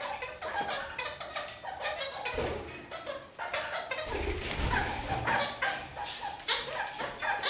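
Red-crowned kakariki (parakeets) chattering, a dense run of short, quick calls, with a couple of dull low bumps in the middle.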